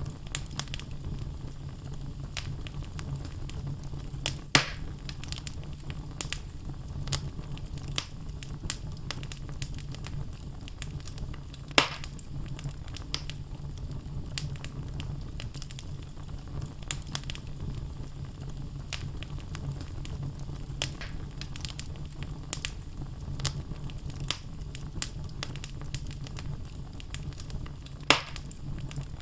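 Wood fire burning in a fireplace: logs crackling with frequent small snaps over a low steady rumble. Three louder pops stand out, about four seconds in, about twelve seconds in, and near the end.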